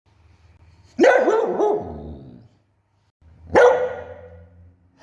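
Samoyed barking twice, about two and a half seconds apart, each bark loud at its start and trailing off.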